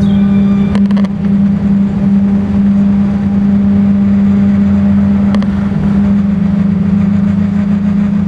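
Steady low cabin drone inside an Airbus A350-900 taxiing after landing, from its Rolls-Royce Trent XWB engines at idle and the cabin air system. A few faint clicks about a second in.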